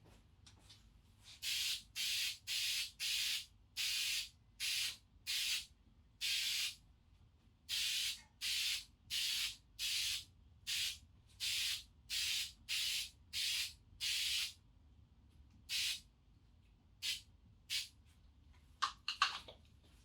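Aerosol can of Hi-Strength 90 spray adhesive hissing in a long run of short bursts, about one and a half a second, then three more spaced bursts. A few sharp clicks near the end.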